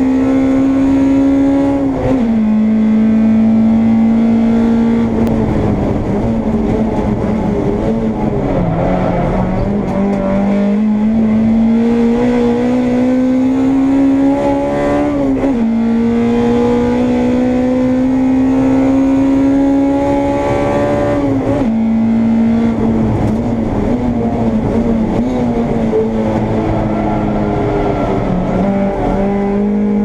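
Honda Integra race car engine heard from on board, running hard with its pitch climbing slowly through each gear. The pitch drops sharply at upshifts about 2 s in, around 15 s and around 21 s, and falls lower near 8–9 s and near the end before climbing again as the car slows for corners and accelerates out.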